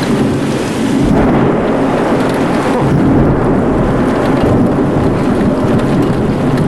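Thunder rumbling, swelling about a second in and rolling on, over heavy rain.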